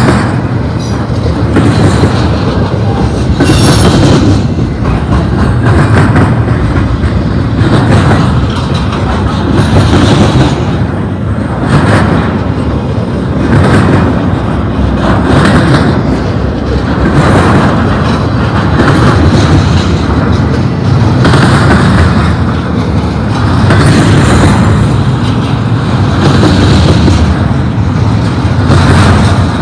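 Intermodal freight cars rolling past close by: a loud, steady rumble of steel wheels on rail with rhythmic clacking. It swells and eases every couple of seconds as each car's wheel sets go by.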